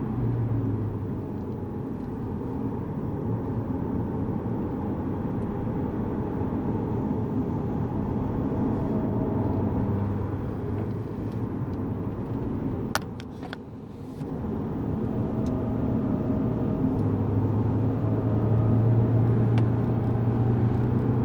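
Lexus GS200t's 2.0-litre turbocharged four-cylinder engine and road noise heard from inside the cabin while circulating a race track: a steady drone. It dips briefly about two-thirds of the way through, with a few sharp clicks, then grows louder again near the end.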